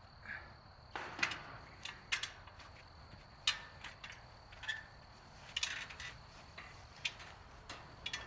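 Scattered light mechanical clicks and clanks, about ten spread irregularly over several seconds, over a faint steady high whine.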